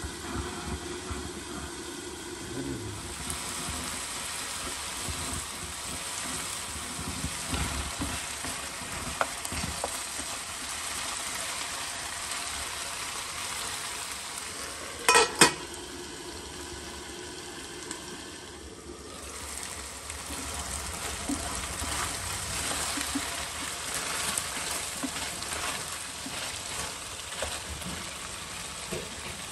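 Chicken pieces sizzling in oil and their own juices in a nonstick pan, a steady frying hiss that grows a little louder in the second half. Two sharp knocks close together about halfway through, and a wooden spatula stirring the chicken near the end.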